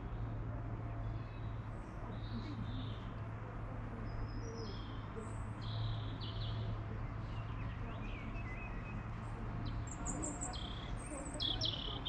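Small birds chirping and trilling in the trees, in short scattered calls that come more often near the end, over a steady low hum.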